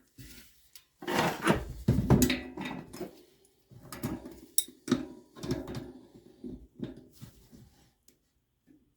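Irregular knocking and clattering of hard objects being handled, in several bursts.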